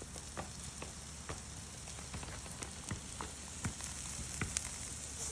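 Crackling and sizzling from a cooking fire: a steady hiss with irregular sharp pops, about two a second.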